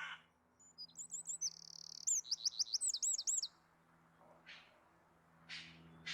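A small songbird singing a phrase of high, rapid, looping whistled notes, then a few short rasping calls near the end.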